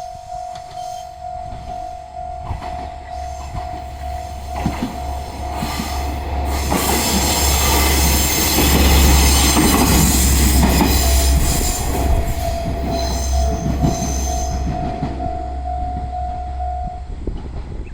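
Level-crossing alarm bell ringing in a fast, even pulse while a KiHa 120 diesel railcar passes over the crossing. The railcar's engine rumble and wheel noise swell to a loud peak in the middle, with high wheel squeal, then fade. The crossing bell stops shortly before the end.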